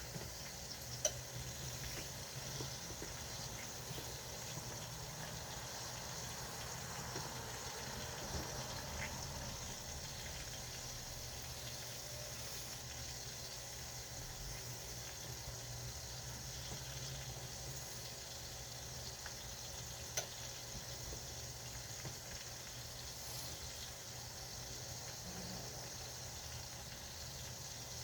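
Spaghetti and meatballs cooking on the stove: a steady hiss with a few light clicks.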